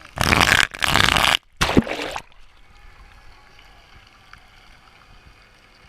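Water splashing and rushing close to the microphone in a swimming pool: three loud rushes in the first two seconds, then only faint water sound.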